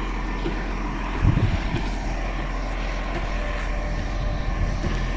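A steady engine drone, with a brief low thump about a second in.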